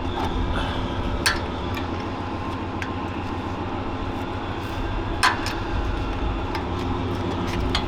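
Steady hum of a running motor, with a few sharp metallic clicks, loudest about five seconds in.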